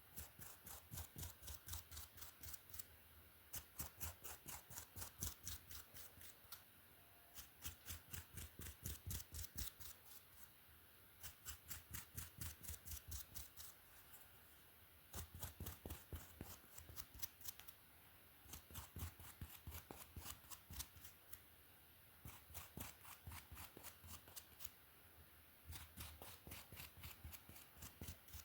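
A brush dragged through hair close to the microphone in quick, even strokes, about four a second, in runs of a few seconds with short pauses between them.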